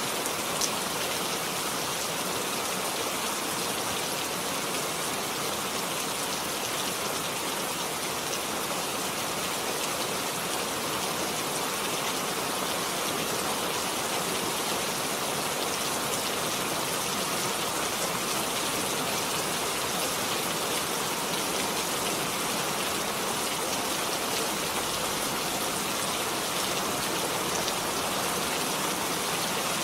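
Steady, even rain, falling densely with a constant hiss and patter, and one brief drop click about half a second in.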